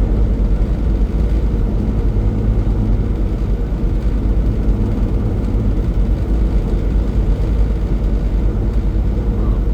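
Semi truck cruising at highway speed, heard inside the cab: a steady, loud drone of engine and road noise.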